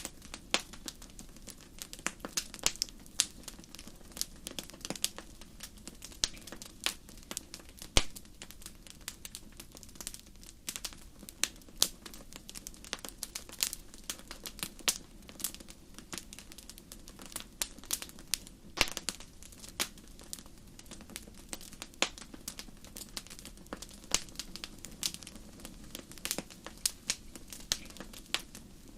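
Wood fire crackling in a fireplace: irregular sharp pops and snaps, several a second, over a low steady hiss of the flames.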